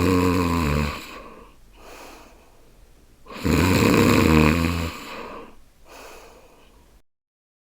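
A person snoring: two loud, low snores about three and a half seconds apart, each followed by a quieter breath, then the sound cuts off suddenly near the end.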